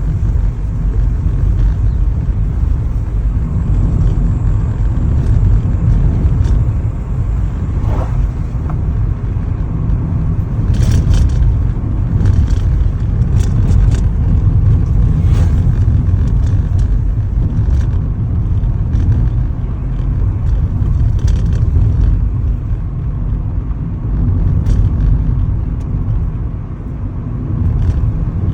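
Steady low rumble of a moving car, road and wind noise, with a few faint ticks and rattles.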